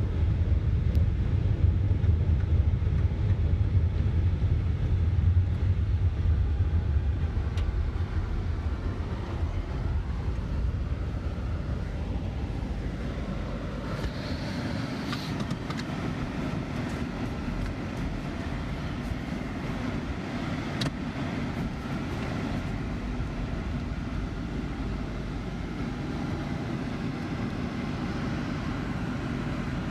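A vehicle driving, heard from inside, with a low road rumble that fades about ten seconds in and leaves a quieter, steady running noise.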